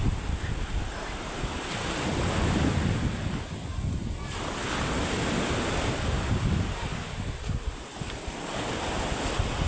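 Rough surf breaking on the shore under strong wind that buffets the microphone in gusts, the churned-up sea ahead of an approaching typhoon.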